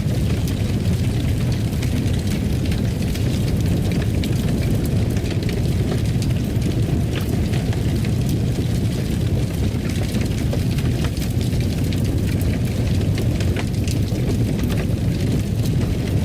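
Fire burning in a fireplace: a steady low rumble of flames with many small crackles and pops scattered through it.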